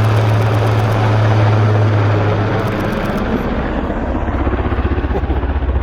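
Helicopter making a fast pass. A steady drone, after about two and a half seconds, drops lower and turns into a quick, even rhythmic beat from the rotor blades.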